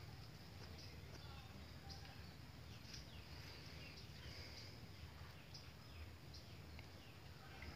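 Faint outdoor ambience: scattered short, high bird chirps over a low, steady rumble.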